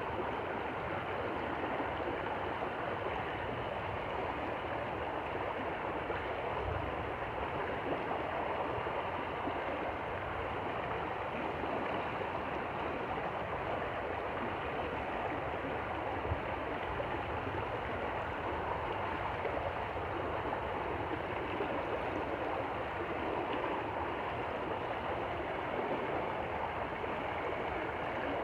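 Stream water flowing, a steady even rushing.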